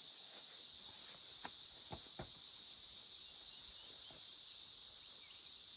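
Steady high-pitched chorus of insects, with a few faint knocks about two seconds in.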